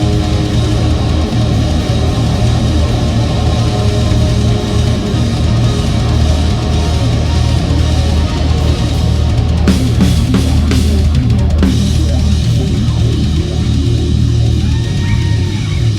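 Live rock band playing loud, with distorted electric guitar, bass and a drum kit. About ten seconds in comes a quick run of hard drum and cymbal hits.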